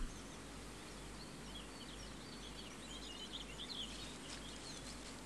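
Faint steady background hiss and hum with small birds chirping, the chirps clustering from about two to four and a half seconds in.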